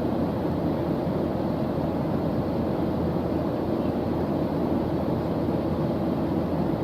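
Steady white-noise background sound, an even deep hiss weighted toward the low end, with no breaks or changes.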